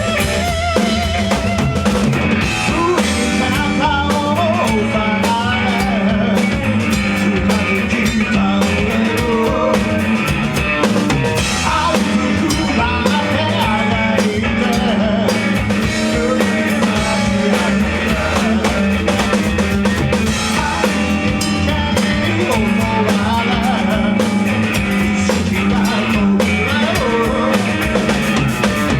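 Rock band playing live, the drum kit prominent, at a steady full level.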